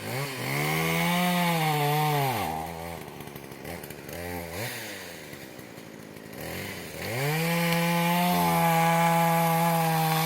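Chainsaw running at high revs while cutting a wind-felled birch, its pitch dipping as it bites. About two and a half seconds in it drops to a lower, unsteady speed for a few seconds, then revs back up and holds steady.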